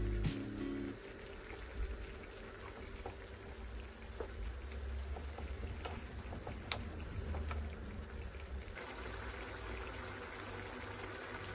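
Food simmering and bubbling in a pan, with scattered small clicks and ticks. A brighter hiss comes in near the end.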